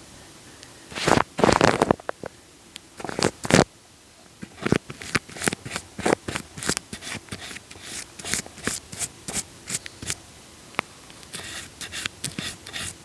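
Wet, sticky crackling and clicking right against the microphone. It starts with two louder bursts, then goes on as a run of quick, sharp clicks, a few each second.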